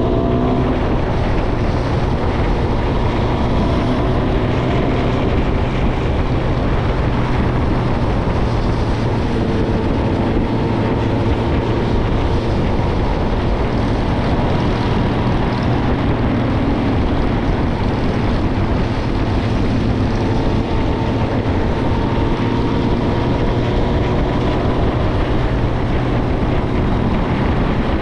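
Suzuki GSX-R1000's inline-four engine through a Yoshimura Alpha exhaust, cruising at an easy, steady pace, its note drifting gently up and down, with wind rushing over the microphone.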